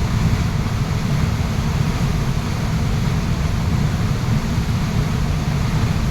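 Waterfall: a steady, deep rush of falling water that holds constant throughout.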